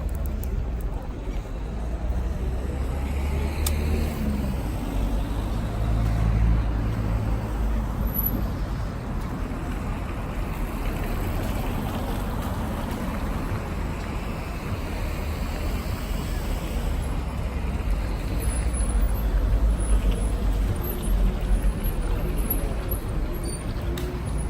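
City street traffic: a steady low rumble of passing vehicles, with a heavier engine going by between about three and seven seconds in.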